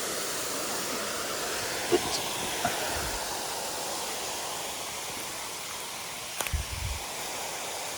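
Mountain stream water rushing steadily, with a few brief clicks and low bumps, the sharpest click about two seconds in and a cluster of bumps past the middle.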